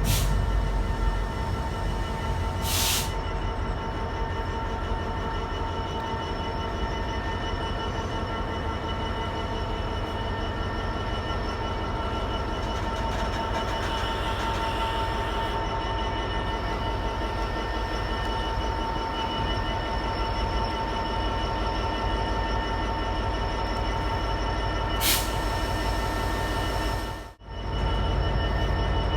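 Freight train of engineering wagons rolling past with a steady low rumble and steady high ringing from the wheels. A short sharp hiss comes about three seconds in and again near the end, and the sound briefly cuts out shortly before the end.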